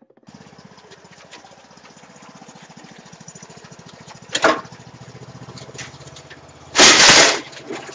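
A vehicle engine runs with a steady, rapid pulsing drone. A short sharp noise comes about four and a half seconds in, and a loud half-second crash of noise comes near the end.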